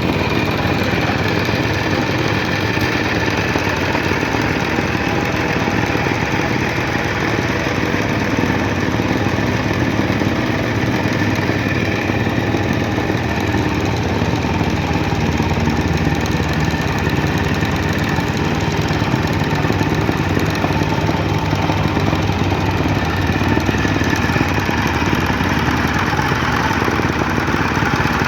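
Soil compaction machine running steadily: a loud, unchanging engine note with fast, even knocking from the compactor working the ground.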